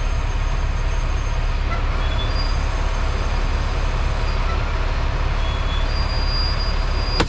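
Semi-truck running, heard inside the cab: a steady low rumble with faint high whistling tones coming and going. The driver takes the noise for a brake air-system fault, with the truck losing air every time the brakes are applied. A sharp click near the end.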